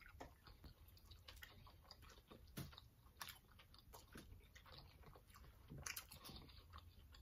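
Faint chewing and mouth sounds of people eating, with scattered small wet clicks and a few soft crunches.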